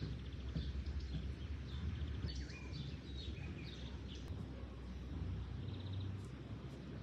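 Small birds chirping and calling in scattered short notes over a steady low rumble.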